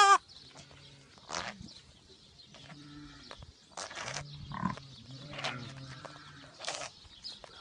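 Newborn lamb bleating: a loud bleat rising in pitch cuts off just after the start, followed by short noisy puffs and faint low calls, and a new bleat begins at the very end.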